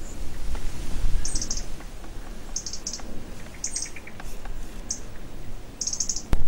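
A small songbird calling in quick clusters of very high, rapid chirps, about once a second, over a low rumble. A single sharp click near the end.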